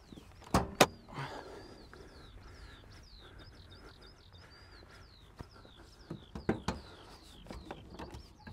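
A bird singing a long, quick run of short, high, falling whistles. Two sharp knocks come about half a second in, and scattered light clicks and rattles near the end, from hands at the car's bonnet latch.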